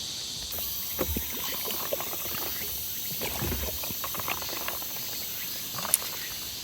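Steady high chirring of insects, with scattered small clicks and soft knocks from eating and handling tableware at the table; one sharper click comes about six seconds in.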